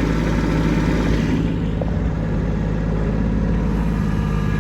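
Kubota B2601 compact tractor's three-cylinder diesel engine running steadily under load as it climbs a snowy hill. About a second and a half in, the hiss in the higher range drops away while the engine note carries on.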